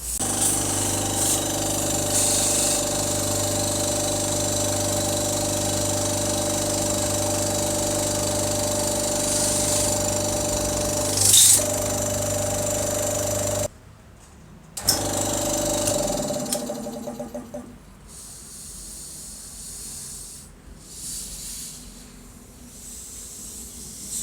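Restored Iwata oilless air compressor running steadily, with a short loud hiss of air about eleven seconds in. It cuts off sharply, runs again briefly, then winds down as it coasts to a stop.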